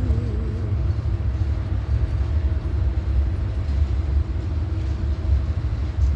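A long freight train rolling slowly past at close range: a steady low rumble with faint steady tones above it.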